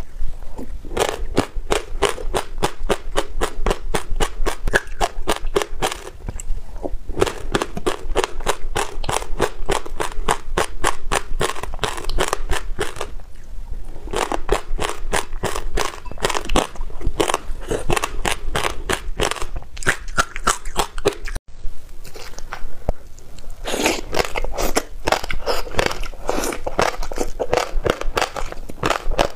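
Close-miked chewing of passionfruit seeds: rapid runs of sharp crackling crunches, broken by short pauses between mouthfuls.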